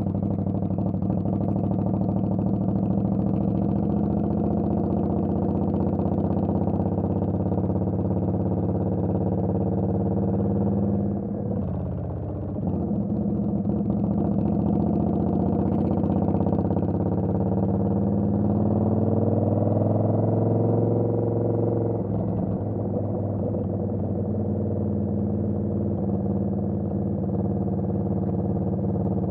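Indian Scout Bobber's V-twin engine running under way. About eleven seconds in the sound dips briefly, as at a throttle-off or gear change; then the engine note climbs in pitch over several seconds and settles back to a steady run.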